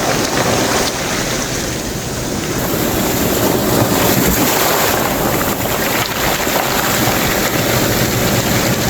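Ocean surf surging up a shore of black rocks and draining back, the backwash rolling loose rocks down with it; the surge builds about three seconds in. Wind buffets the microphone.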